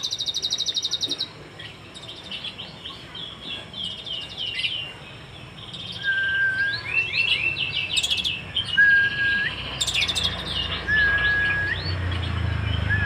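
Sunbird singing a varied song of rapid high trills, quick falling chirps and short level whistles repeated every couple of seconds in the second half, the song filled with mimicked phrases of the cililin (pygmy tit).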